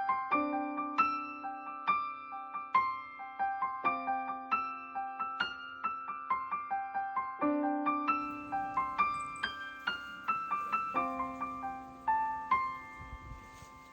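Background piano music: a gentle melody of quick struck notes over a low held note that changes about every three and a half seconds.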